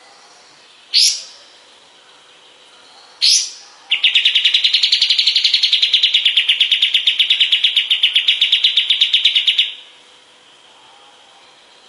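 Pied triller singing: two short, sharply rising whistles, then a long fast trill of about nine notes a second lasting nearly six seconds.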